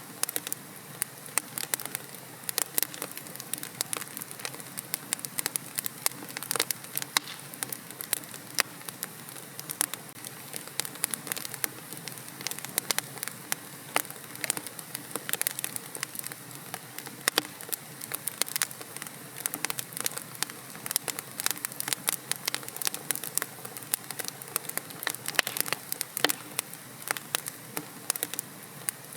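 Wood fire crackling in a fireplace: frequent sharp pops and snaps, several a second, over a steady low hiss of the burning.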